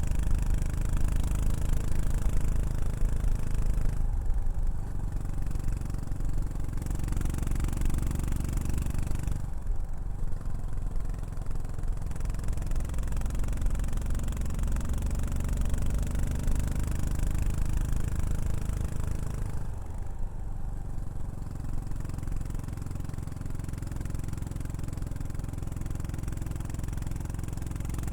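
Yamaha SR400's single-cylinder four-stroke engine running through a Y's Gear Prunus aftermarket muffler while the bike is ridden. Three times the exhaust note briefly softens, losing its upper range, then picks back up.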